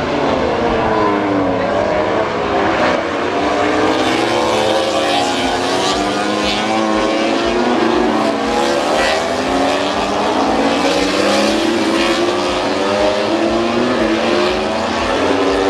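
Several MotoGP racing motorcycles running at high revs, loud and continuous, their engine notes rising and falling and overlapping as the bikes race past.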